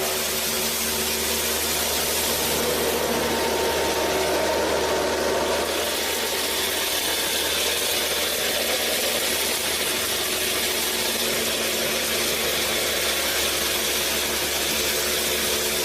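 Homemade mini flour mill machine running, its small engine or motor and grinding mechanism making a steady mechanical whir.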